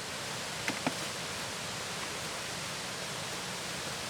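Steady rain falling, an even hiss, with two short sharp ticks just under a second in.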